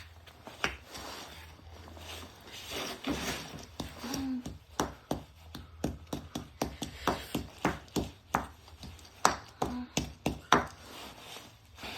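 Washing machine drum turning with heavy loose objects inside, banging against it in repeated sharp knocks over a low motor hum. The knocks come thicker and faster from about five seconds in, as the drum picks up speed.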